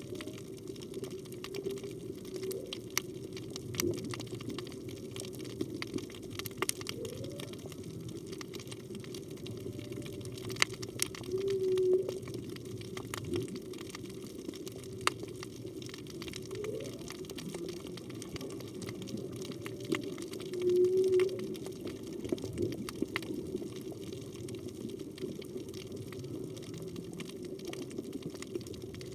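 Whale song heard underwater, which the diver takes to be a humpback whale's: a series of calls, some short rising sweeps and two louder held tones, one a little over a third of the way in and one about two thirds in, over a steady wash of water noise and scattered sharp clicks.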